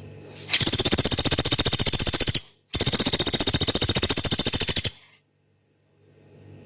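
Pelatuk beras woodpecker giving two long, rapid, harsh rattling trills, the second following a brief pause. The trills are high-pitched, with roughly twenty pulses a second, and each cuts off sharply.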